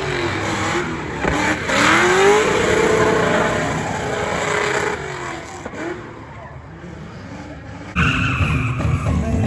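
Car engine revving hard with tyres squealing as they spin in a burnout, the pitch rising and falling. It dies down about five seconds in, then loud engine and tyre noise starts abruptly near the end.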